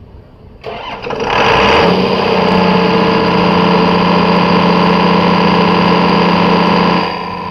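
Clarke diesel fire-pump engine cranked on its second starter, catching within about a second and running loud and steady. Near the end it drops to a quieter steady run.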